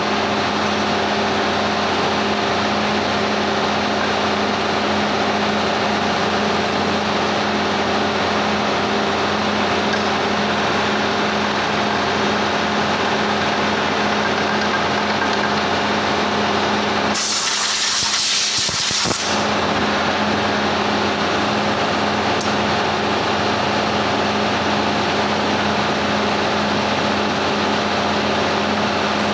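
Steady mechanical drone with a constant low hum, and a sharp hiss lasting about two seconds a little past the middle.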